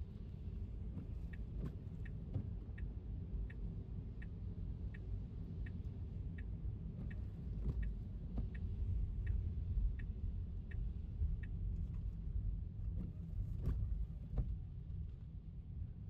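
Steady low road rumble of a Tesla driving on a wet street, heard from inside the cabin. Over it a turn signal ticks evenly, about three ticks every two seconds, for roughly ten seconds and then stops. An odd louder knock comes through, the strongest near the end.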